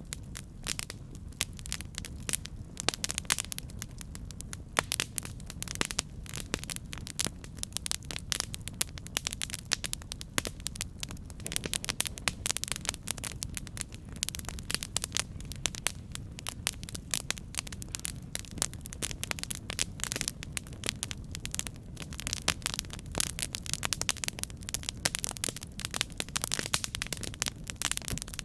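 Campfire burning, with many quick sharp crackles and pops over a steady low rumble of the flames.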